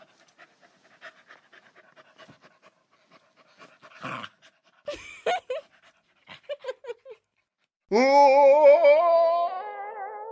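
Dog panting softly with a few short whimpers and yelps, then one long, loud, wavering howl about eight seconds in.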